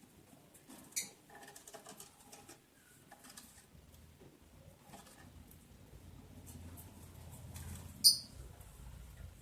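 Lovebirds: two short, sharp, high chirps, one about a second in and a louder one near the end, with faint scratching and pattering between.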